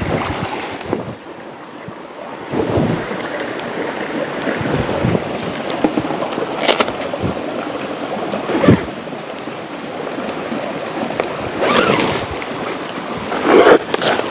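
Rushing river water, a steady hiss broken by irregular louder whooshes.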